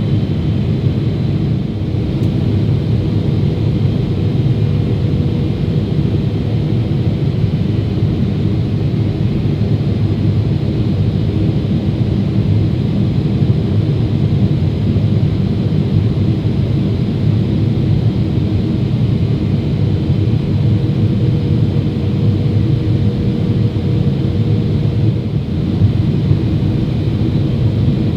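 Steady in-flight cabin noise of a Boeing 777-300ER airliner: an even, loud low rumble of engines and airflow with a faint steady hum, unchanging throughout.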